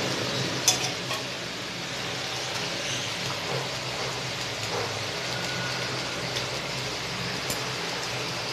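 Masala gravy sizzling steadily in a large cooking pot as raw chicken pieces are piled into it, with one sharp click about a second in and a low steady hum underneath.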